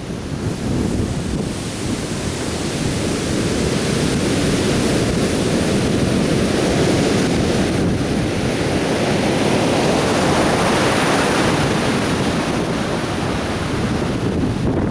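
Atlantic Ocean surf breaking and washing up a beach in a continuous rush. About ten seconds in, it swells brighter as a wave breaks.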